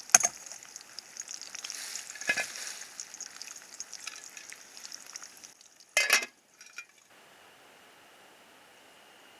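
Food sizzling in a frying pan over a campfire, with a knock near the start and another about two seconds in. A louder clatter comes about six seconds in, after which the sizzling stops.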